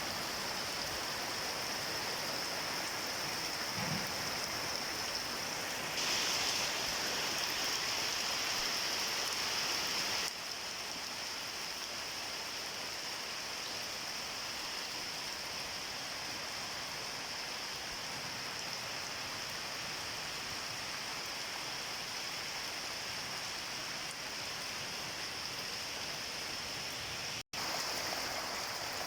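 Steady rain falling, an even hiss that grows louder for about four seconds some six seconds in, then settles back, with a momentary break near the end.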